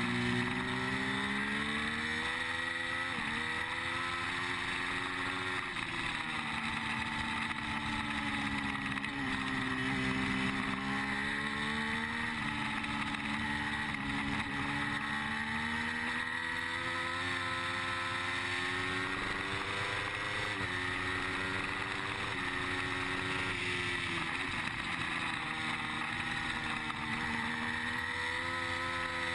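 Triumph Street Triple 675's three-cylinder engine under race load, its pitch climbing through the revs and dropping sharply at upshifts a few times, and falling away under braking, over steady wind rush on the microphone.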